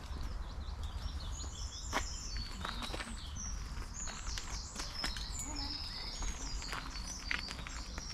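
Small birds singing in repeated high, trilling phrases, with footsteps on a path beneath.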